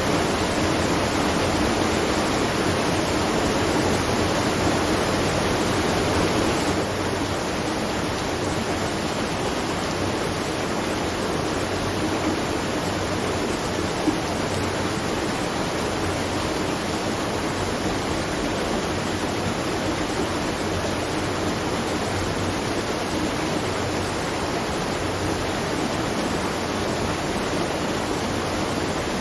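Steady rush of water pouring at a watermill, an even noise that drops a little in level and brightness about seven seconds in. One short tick about halfway through.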